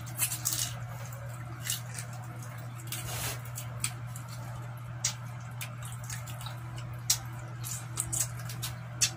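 Wet mouth sounds of people eating roasted chicken by hand: irregular sharp smacks and squelchy chewing, over a steady low hum.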